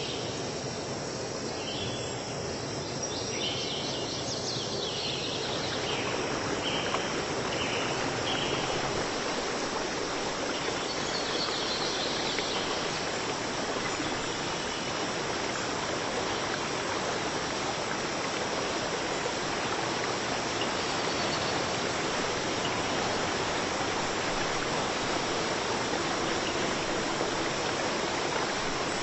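Steady rush of running water, like a stream or small waterfall, swelling in about six seconds in and then holding. Short repeated insect chirps are heard over it in the first few seconds.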